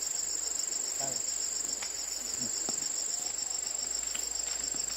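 Insects chirping in a steady, high-pitched, evenly pulsing trill, with a few faint clicks.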